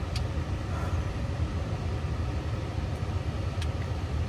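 Steady low rumble of a car in motion, with a faint click or two.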